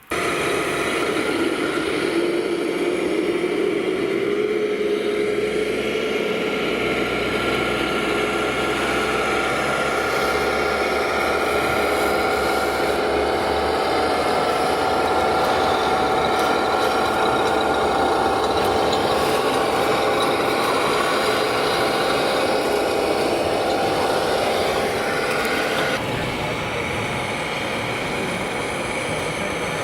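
Engine sound from an RC semi truck's sound unit playing a diesel truck engine through a small onboard speaker. It runs steadily, its pitch rising a little in the first few seconds, and its tone changes about 26 seconds in.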